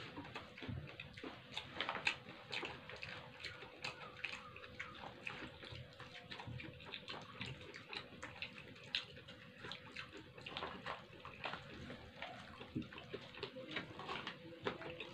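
Close-up eating sounds of rice and side dishes eaten by hand: wet chewing, lip smacks and small mouth clicks coming thick and uneven. A faint steady hum lies underneath.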